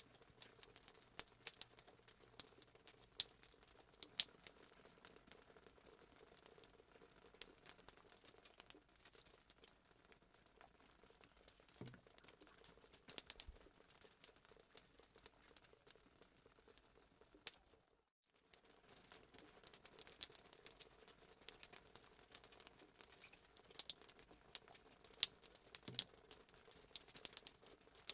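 Fireplace sound effect: a wood fire crackling faintly, with irregular sharp pops and snaps over a soft hiss. It drops out briefly about 18 seconds in.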